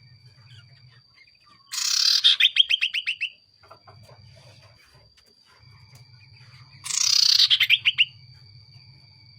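Common iora (cipoo) giving two loud calls about five seconds apart, each a harsh start running into a fast rattle of notes that slide slightly down in pitch.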